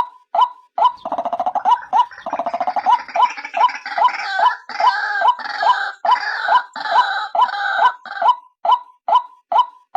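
White-breasted waterhen calls played as a bird-trapping lure: a short, clipped note repeated steadily about twice a second. From about a second in to near the end, a harsher, rapidly pulsed chattering chorus rises over it, then drops away to leave the plain repeated notes.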